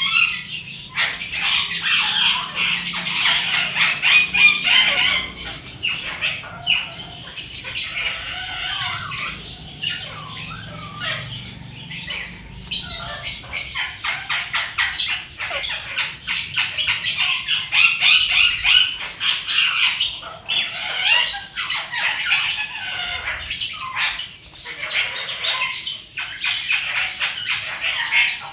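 A parrot calling in harsh squawks and chatter over a dense run of quick clicks and crackles.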